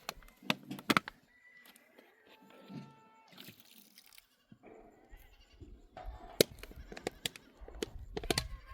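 Sheep or goats of a grazing flock bleating briefly, mixed with several sharp clicks and knocks.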